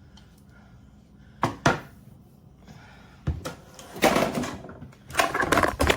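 Kitchen utensils and dishes being handled: two sharp knocks, then another, followed by louder bouts of clattering and scraping.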